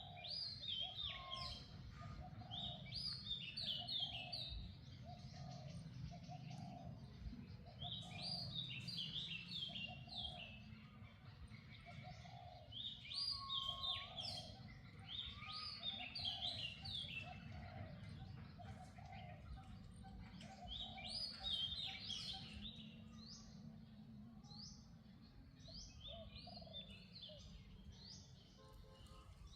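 Birds singing in repeated bursts of quick, high, downward chirps every few seconds. Under them runs a steady series of lower notes, a little over one a second, and a low rumble.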